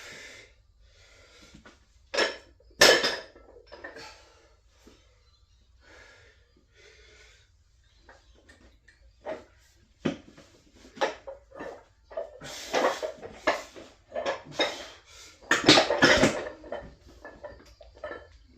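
Metal gym weights clanking and clinking in a run of irregular knocks and short clatters, with a strong pair about two to three seconds in and a denser, louder cluster near the end.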